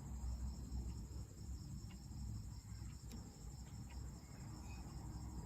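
Faint, steady high-pitched trilling of crickets, with a low hum underneath.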